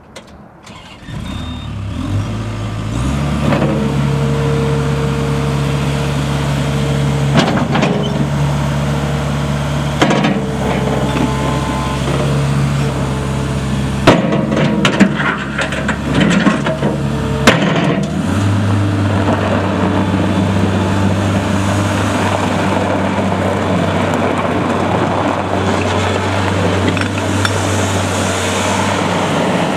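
New Holland L170 skid steer's diesel engine starting up and running steadily, with several sharp clunks in the middle and a change in the engine note about eighteen seconds in.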